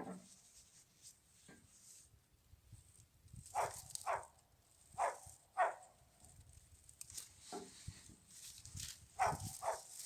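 A dog barking in short barks, mostly in quick pairs, several times over.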